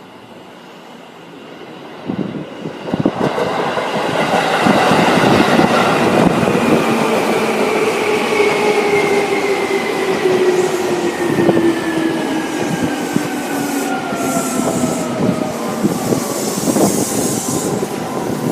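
Seibu 2000 series electric train pulling into the platform and slowing. Its motor whine falls steadily in pitch, and the wheels click over the rail joints. Some high hiss and squeal comes near the end.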